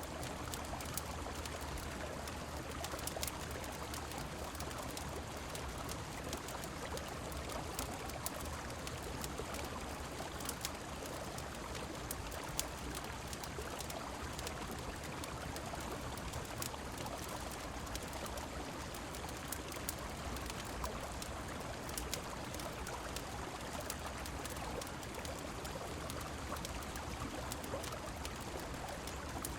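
A steady rush of a flowing river and falling rain, with scattered small sharp crackles from a fireplace.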